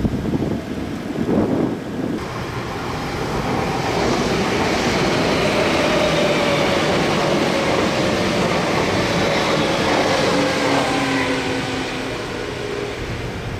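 A Nagoya Railroad (Meitetsu) electric train running past, a rushing rumble with a whine gliding down in pitch. It swells about four seconds in and fades toward the end.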